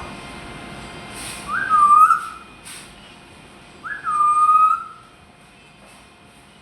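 A parrot whistles two separate notes, each a quick upward flick that drops into a short held tone.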